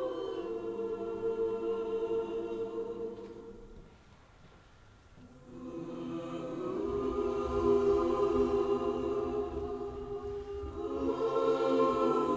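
Choir singing long sustained chords. The chord fades away about four seconds in, then the voices re-enter a second or so later and swell back up.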